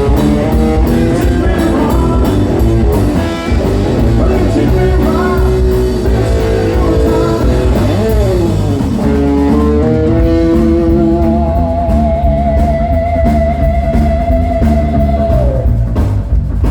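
Electric blues band playing live: a lead electric guitar solo with string bends, then a long note held with vibrato that bends down near the end, over bass and drums.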